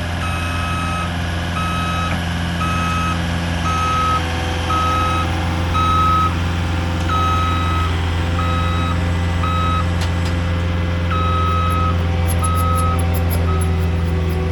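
Truck's reversing alarm beeping about once a second over the steady hum of its running engine as the truck backs up, with a brief pause in the beeps about two-thirds of the way through.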